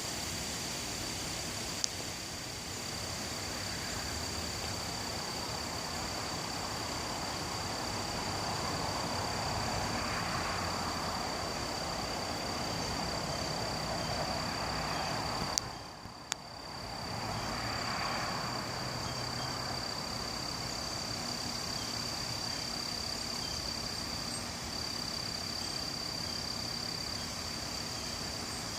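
Gusty wind outdoors, swelling up and dying back twice, over a steady high-pitched insect-like drone, with a few sharp clicks.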